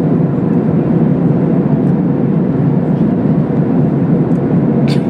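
Steady cabin noise in the lower-deck economy cabin of an Airbus A380-841, a constant low rumble of engines and air with no change in level. A faint click is heard just before the end.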